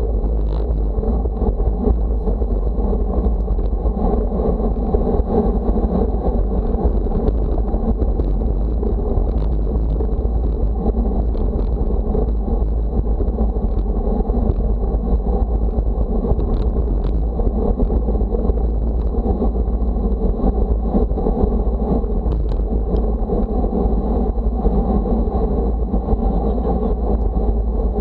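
Steady wind buffeting the microphone, with a rushing road noise underneath, on a windy day.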